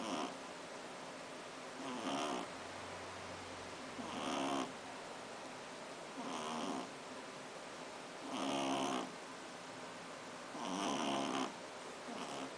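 Shih tzu puppy snoring in its sleep: a short snore about every two seconds, six in all, each lasting under a second.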